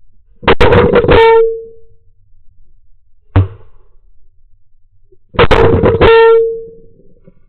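Goose call blown by a hunter, twice: each time a quick run of short clucks ending in a drawn-out, fading note. A single sharp knock between the two calls.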